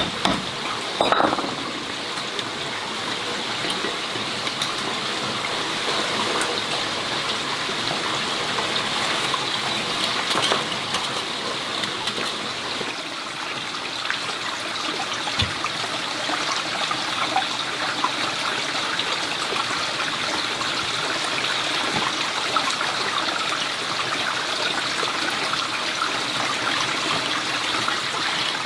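Steady running water, like a stream or a flowing trickle, with a few knocks about a second in.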